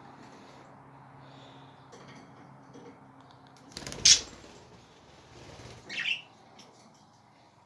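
Pet birds squawking and chirping, with a loud, sharp noisy squawk about four seconds in and a shorter falling call about two seconds later.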